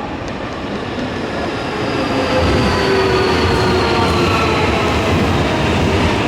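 Nankai electric train coming into the station: the rumble of its wheels on the rails under a motor whine that slides slowly down in pitch as it slows, growing louder about two seconds in.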